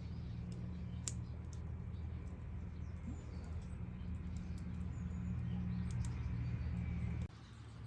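A low steady hum with a few faint sharp clicks, cutting off abruptly about seven seconds in.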